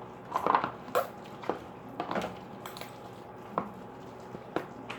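Homemade glue slime being squeezed and stretched by hand, making a string of short, irregular squelches.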